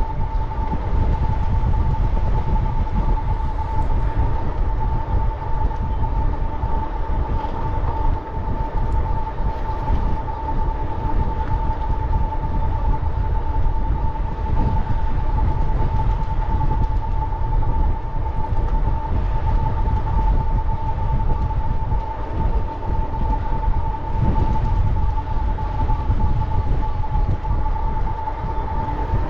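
Wind buffeting the microphone and riding noise from a bicycle in motion: a dense low rumble with a steady high whine held at one pitch throughout.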